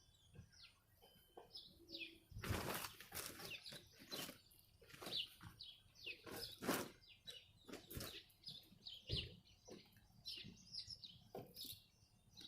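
Rustling and handling of clothing, in irregular bursts, with small birds chirping repeatedly in the background.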